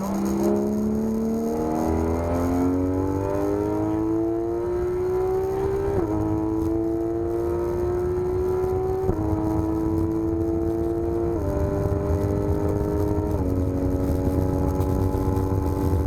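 Porsche 991 GT3 RS's naturally aspirated 4.0-litre flat-six under hard acceleration, heard from inside the car. The engine note climbs steadily for about six seconds, then drops in four steps as the paddle-shifted gearbox changes up, over a constant low road rumble.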